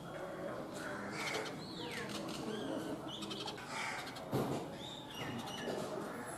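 House sparrows chirping: repeated short chirps, with a few notes that slide down in pitch.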